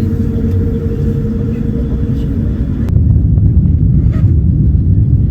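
Jet airliner cabin noise, most likely during the takeoff roll or climb: a steady low engine rumble with a steady hum over it. About three seconds in, the sound changes abruptly, the hum drops out and the rumble grows louder.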